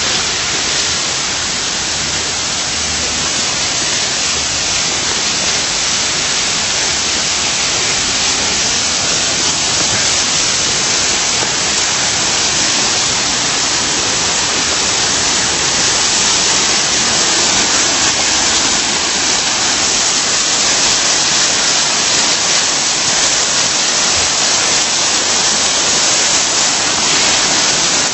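Rushing water of the garden's gorge and artificial waterfall, a steady loud rush that grows a little louder about halfway through.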